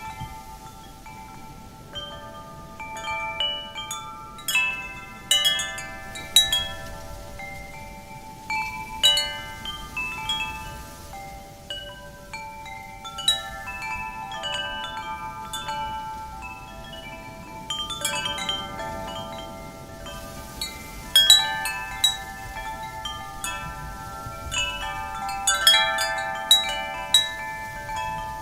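Metal wind chimes struck at irregular intervals by the wind, the notes overlapping and ringing on, with clusters of strikes. A soft, steady wind noise lies underneath.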